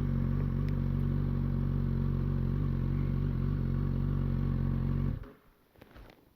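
Motorcycle engine idling steadily, then switched off a little over five seconds in, the sound dying away in a fraction of a second; a faint knock follows.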